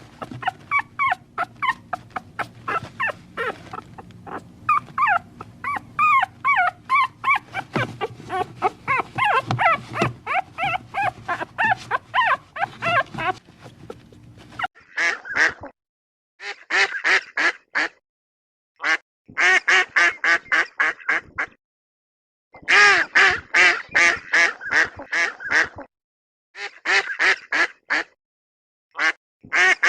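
Ducks quacking in fast runs of calls, several a second, in bursts of one to three seconds with short silences between. They follow a first stretch of many short, high, pitch-bending animal calls over a steady low hum, which ends abruptly about halfway through.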